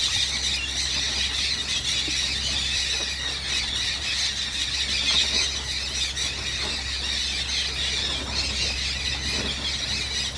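A large mixed flock of parrots and parakeets, including dusky-headed parakeets, blue-headed parrots and mealy amazons, gathered at a riverbank clay lick. They keep up a continuous dense chorus of shrill screeching and squealing calls, with no letup. A low steady hum runs underneath.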